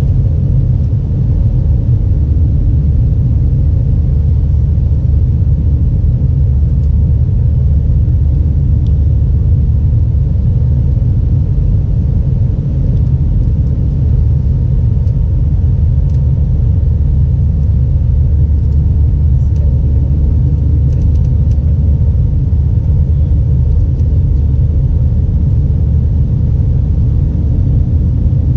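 Steady low rumble of an Airbus A320's engines and airflow heard inside the passenger cabin, with a faint steady hum on top.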